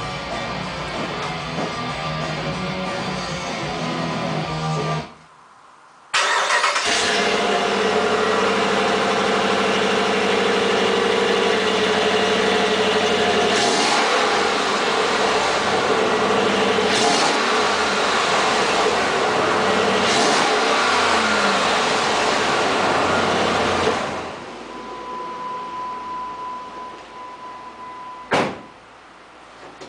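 Guitar music for about five seconds, then after a brief gap the 2007 Ram 1500's 5.7-litre Hemi V8 running loud and steady with one muffler of its stock exhaust removed, with a few brief surges. It drops much quieter for the last few seconds.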